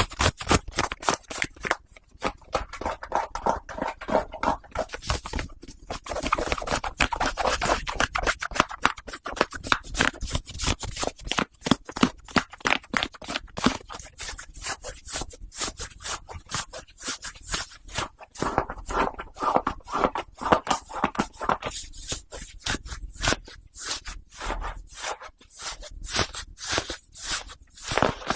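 White cotton socks rubbed and scratched right against a binaural microphone, a continuous run of rapid, crisp scratching strokes.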